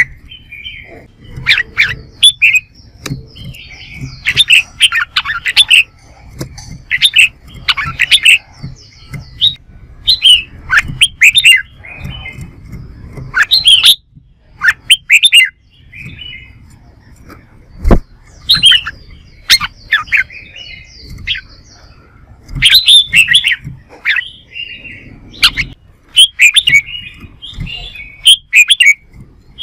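Red-whiskered bulbuls singing in competition: short, bright warbled phrases repeated over and over with brief pauses. A single sharp click sounds once past the middle.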